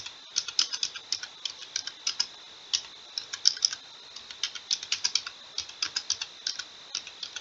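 Typing on a computer keyboard: a quick, uneven run of key clicks with a brief pause partway through, as a short comment is typed.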